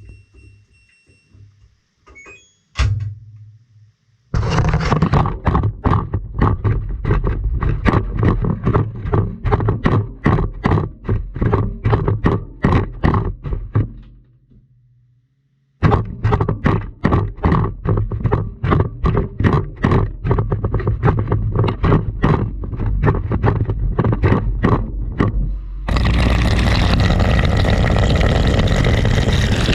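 A GoPro and glow sticks tumbling in an LG washing machine's turning drum, knocking hard a few times a second, in two runs with a pause between. Near the end the knocking gives way to a steady rushing noise.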